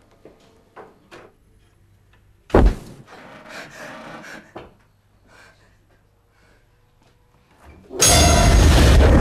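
A single loud bang about two and a half seconds in, followed by a couple of seconds of lighter clatter. Near the end a loud, steady noise sets in suddenly.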